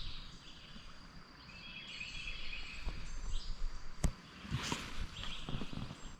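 Birds singing outdoors in short, repeated warbling phrases over a steady high thin tone. A sharp click about four seconds in, followed by brief rustling.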